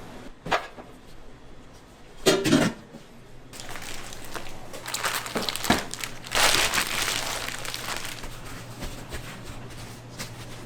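Handling noises: a sharp knock, then a loud cluster of knocks, followed by crinkling and rustling that swells and fades.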